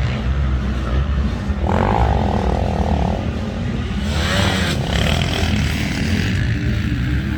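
Motocross bike engines running, with a steady low engine note and higher-pitched revving that rises about two seconds in and again about four seconds in.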